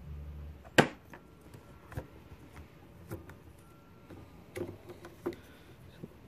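Handling noise from a car headlight assembly being worked on by hand: one sharp plastic click or knock about a second in, then a few lighter scattered clicks and taps.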